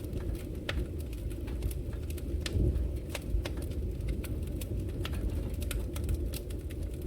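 Wood fire crackling in a fireplace: a steady low rumble of flames with frequent sharp pops and snaps at irregular intervals.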